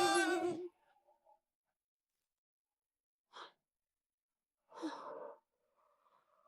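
A person breathing out: a short breath about three seconds in, then a longer sigh about five seconds in, with quiet between.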